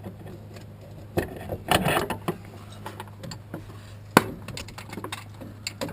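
Metal hand tools clinking and clattering against engine parts in irregular bursts, with one sharp click in the middle, over a steady low hum.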